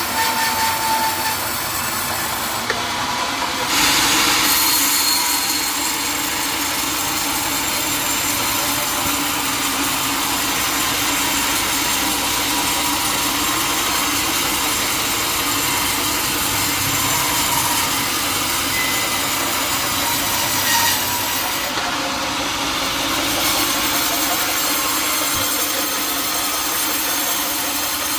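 Sawmill saw cutting through a teak log: a steady run of saw noise, hissy and bright, briefly louder about four seconds in.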